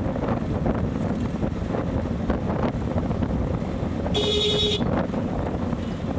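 Wind buffeting the microphone on a moving motorcycle. A vehicle horn beeps once, briefly, about four seconds in.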